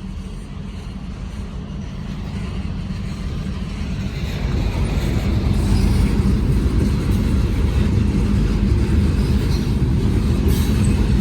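Freight train rolling past: a low, steady rumble of diesel power and rail cars, growing louder over the first six seconds and then holding.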